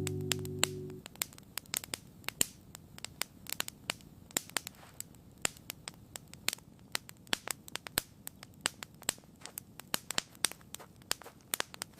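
Campfire crackling: irregular sharp pops and snaps over a faint low hiss. A held synth music chord fades out in the first second.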